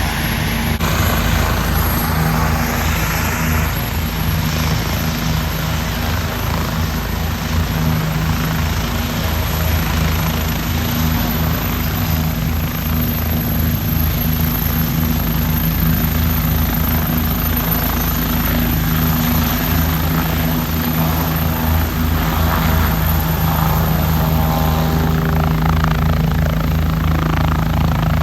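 Police helicopter taking off, running loud and steady with a rapid rotor chop and a thin high turbine whine that climbs slightly about ten seconds in.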